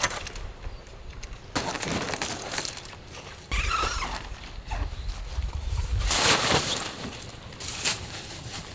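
Irregular rustles and knocks from handling things, with a low rumble running through the middle and a louder scraping burst about two-thirds of the way in.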